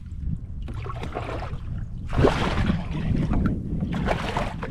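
Handling noise on a fishing kayak while a big redfish is brought in: irregular bursts of rustling and knocking, the longest about two seconds in, over a steady low rumble of wind on the microphone.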